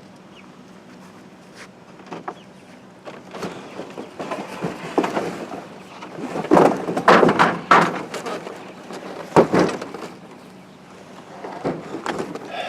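Knocks, bangs and clatter from the wind-damaged chicken tractor's frame and panels being handled during repair, with the loudest cluster in the middle and one sharp bang shortly after.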